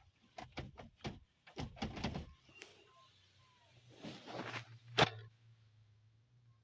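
A series of light clicks and knocks, then a short noisy rustle and one sharp, louder click about five seconds in, over a faint steady low hum.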